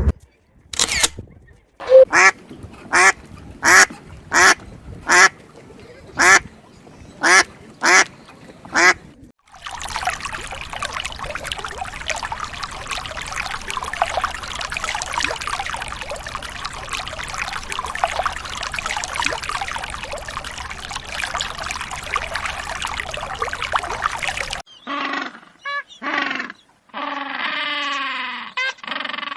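Animal calls: a run of about ten short, loud calls roughly a second apart, then a dense chattering of many animals for about fifteen seconds, then a few more calls near the end.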